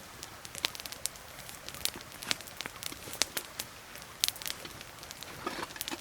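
Small campfire crackling: irregular sharp pops and snaps over a faint steady hiss.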